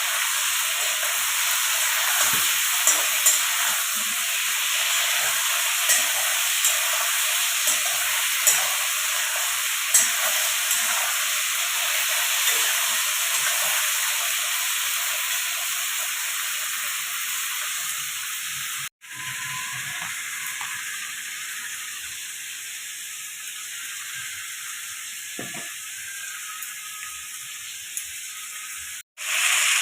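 Vegetables sizzling as they fry in oil in a pan, with a spoon stirring and knocking against the pan in sharp clicks. About two-thirds of the way in, the sound breaks off and resumes as a quieter sizzle.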